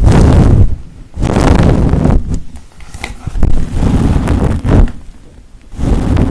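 Close-miked ASMR trigger strokes: a bristle brush or a scratching object rubbed right on or against the microphone, giving about five loud rasping strokes roughly a second apart, each with a heavy low rumble.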